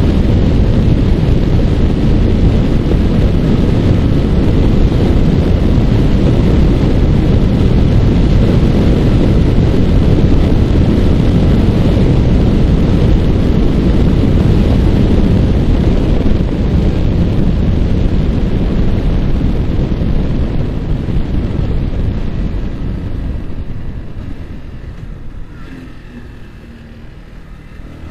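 Wind rushing over the microphone of a Yamaha R15 motorcycle riding at speed, its single-cylinder engine mostly buried under the wind. Near the end the wind dies down and the engine's note comes through faintly as the bike slows.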